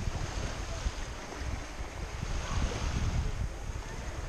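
Black Sea waves washing, with wind gusting on the microphone as an uneven low rumble.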